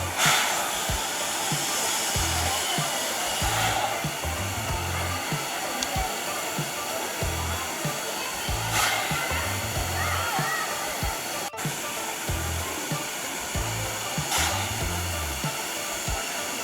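A steady, loud rushing hiss, swelling briefly a few times, with music playing underneath.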